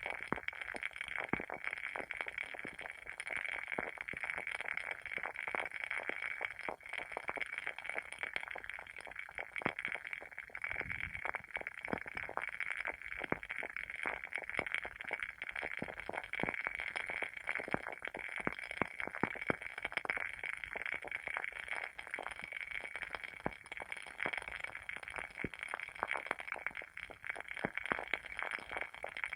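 WoodWick candle's wooden wick burning with a dense, irregular crackle of small pops over a steady hiss.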